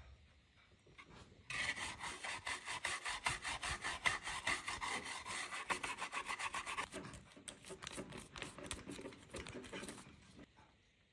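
Rapid back-and-forth rasping strokes by hand, several a second, starting about a second and a half in and dying away near the end.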